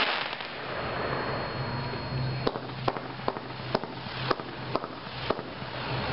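A 500-gram consumer fireworks cake, Air Supremacy, firing its shots. A crackling hiss comes first, then, from about halfway in, a string of about seven sharp bangs roughly half a second apart.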